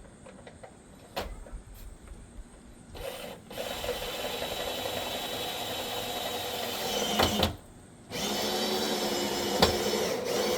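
Power drill running under load into the gutter and fascia to make a new screw hole, in two runs of about four seconds and two and a half seconds with a short pause between, after a few light knocks.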